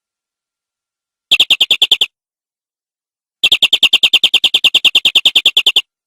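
Canary singing two rapid trills of even, repeated notes, about twelve a second: a short one about a second in and a longer one of over two seconds, with dead silence between.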